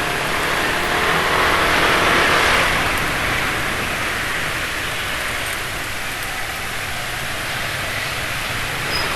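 Road traffic heard from a moving motorbike: a vehicle's engine and tyre noise swells and passes about two seconds in, over a steady rush of road noise.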